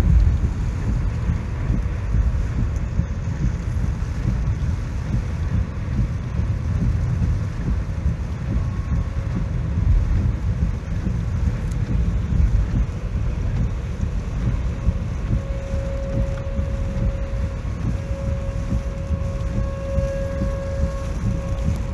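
Typhoon wind buffeting the microphone in gusts, a heavy low rumble with rain noise over it.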